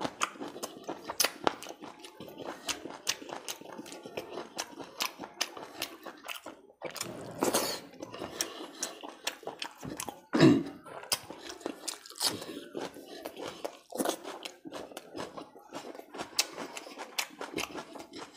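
Close-miked chewing and crunching of curry-soaked food eaten by hand, with many sharp wet mouth clicks and smacks. The loudest mouth sound comes about ten and a half seconds in.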